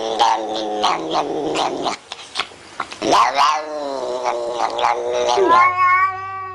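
A cat yowling in long, drawn-out wavering calls, with a short break about two seconds in; near the end a clearer, steadier long yowl begins.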